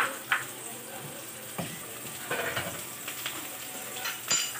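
Chopped onions sizzling in hot oil in a frying pan as they sauté towards translucent, with a few sharp knocks against the pan: two at the start, one in the middle and one near the end.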